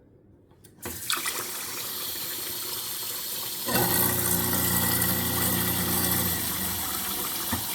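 Kitchen faucet turned on and running into the sink; about three seconds later an InSinkErator garbage disposal switches on and runs with the water, a steady motor hum under the splashing, stopping near the end.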